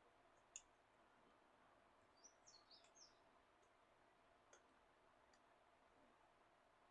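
Near silence: a few faint small clicks, and about two seconds in a brief cluster of quick, high chirps.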